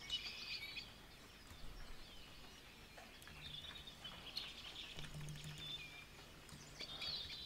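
Faint bird chirping in the background: short, high chirps on and off.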